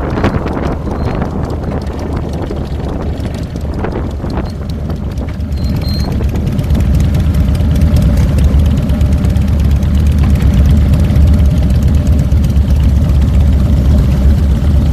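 2007 Harley-Davidson Fat Boy's air-cooled Twin Cam 96 V-twin engine running on the road, with wind rushing past the handlebar-mounted microphone. The engine grows louder about six seconds in.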